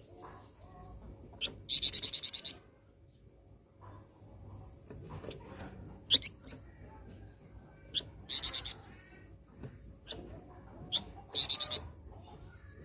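Song of a small songbird kept by Indonesian bird-keepers as the 'flamboyan': three loud bursts of rapid, high trilled notes, each under a second long, near the start, about two-thirds through and near the end. Single sharp chips fall between the bursts. A thin, steady high tone runs underneath.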